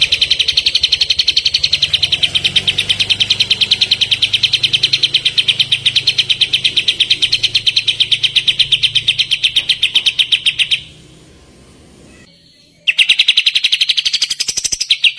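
Kapas tembak song: a long, fast, evenly pulsed high trill of about seven or eight notes a second, the rapid-fire 'tembakan' call used as training song for songbirds. It breaks off for about two seconds near the end, then starts again.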